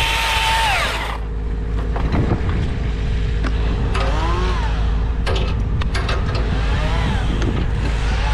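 Chainsaw engine coming off full throttle about a second in and dropping to a low idle. It is blipped up and back down a couple of times, with a few sharp knocks in between.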